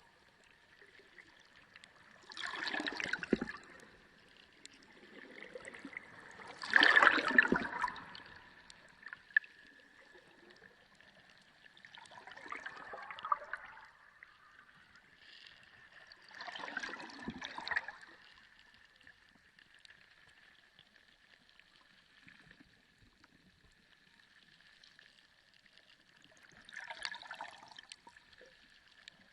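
Sea water sloshing and gurgling in five irregular surges, the loudest about seven seconds in, with quieter lulls between. A faint steady high hum runs underneath.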